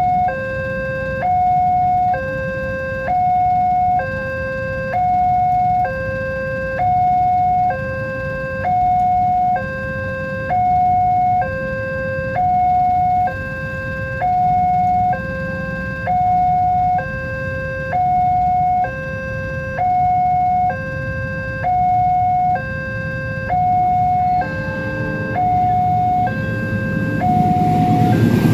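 Indonesian railway level-crossing warning alarm sounding: an electronic two-tone signal alternating steadily between a high and a low note, each held about a second, warning that a train is coming. Near the end the rumble of the approaching train grows louder.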